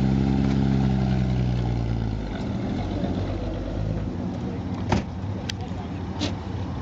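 1953 Chevrolet 3100 stepside pickup's engine running steadily, loud for the first two seconds and then fading lower. A sharp knock comes about five seconds in, with a couple of faint ticks after it.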